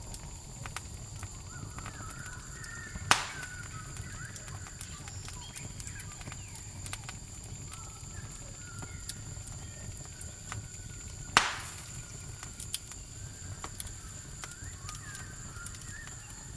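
Campfire crackling with many small clicks and two sharp pops, about three seconds in and again about eleven seconds in, over a steady high trill of crickets, with wavering animal calls coming and going.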